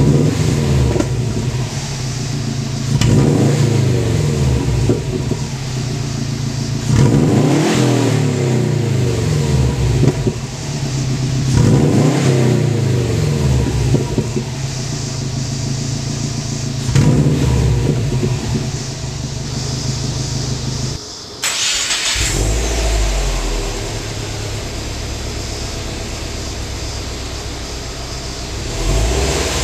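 Exhaust of a 2011 Subaru WRX's turbocharged flat-four, idling with five short revs that each rise and fall back. About two-thirds of the way through the sound cuts abruptly to a deeper idle, with one more rev near the end.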